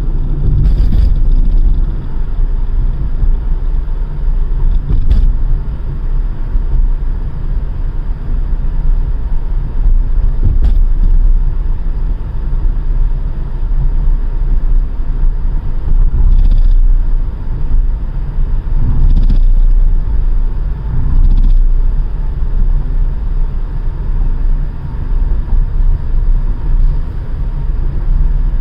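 Steady low road rumble of a car driving through a tunnel, heard from inside the cabin, with a few short knocks.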